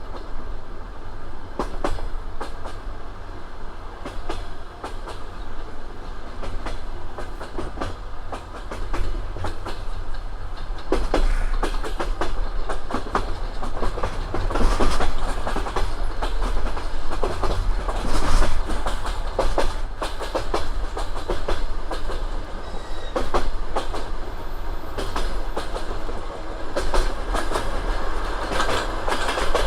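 Railway wheels clattering over rail joints: a quick, irregular clickety-clack over a steady low rumble, growing heavier from about eleven seconds in.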